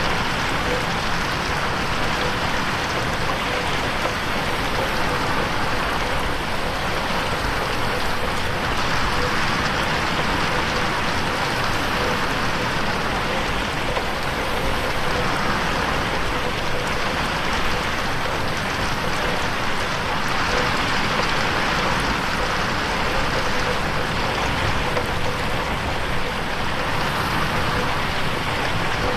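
Steady rain on a window, an even patter that does not let up.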